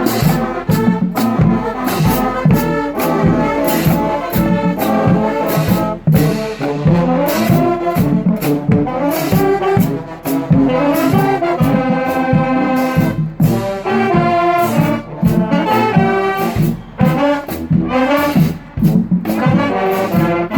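Marching band playing: brass (trumpets and trombones) over a steady drum beat, with fast rising runs near the middle. The music stops at the very end.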